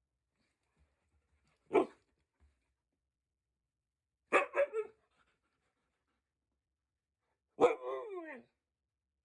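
Dog barking: a single bark about two seconds in, a quick run of three barks in the middle, and a longer bark near the end that falls in pitch.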